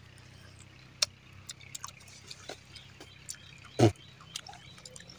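Mouth noises of eating cashew-apple pieces: scattered wet lip smacks and chewing clicks, with one sharp click about a second in and a short, loud thump just before four seconds.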